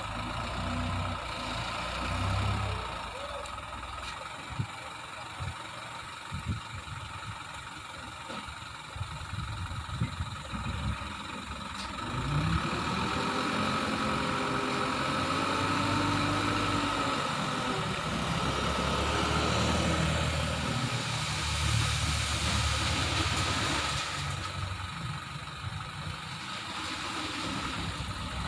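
Truck engine running: it idles, then about halfway through it gets louder, revs up and settles back down, and it runs on loudly for several seconds before easing off.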